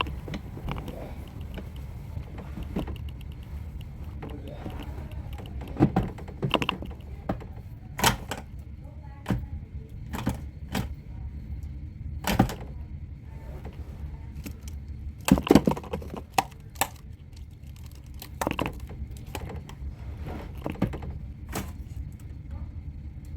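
Toy trash truck being handled, its parts clicking and knocking at irregular intervals over a steady low hum.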